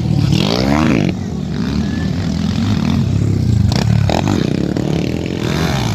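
Underbone motorcycle engines running on a motocross track. One revs up sharply, rising in pitch about half a second in, over the steady drone of the others.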